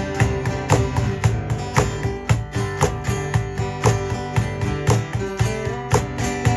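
Acoustic guitar strummed in a steady rhythm, the instrumental intro to a song before the vocals come in.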